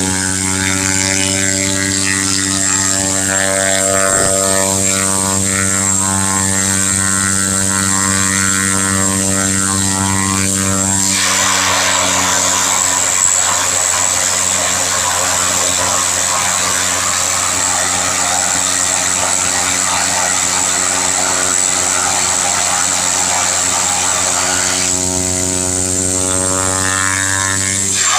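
Small propeller plane's engine and propeller droning steadily at flight power. About eleven seconds in the pitched drone is partly covered by a loud rushing noise, and the clear droning note comes back near the end.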